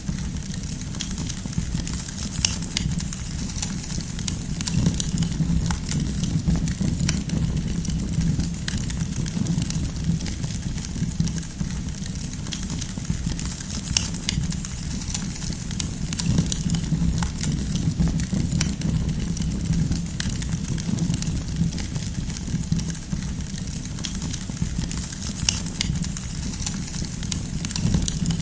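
Campfire burning: a steady low rumble with many scattered sharp crackles and pops of burning firewood.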